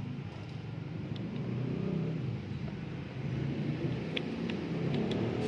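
A vehicle engine running steadily with a low hum. A few light metallic clicks come in near the end, as a wrench works loose the battery's negative terminal.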